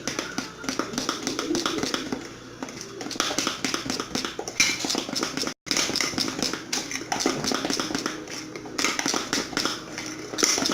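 Spoon stirring thick cake batter in a bowl: a quick, continuous run of taps and scrapes, with a brief dropout about halfway through.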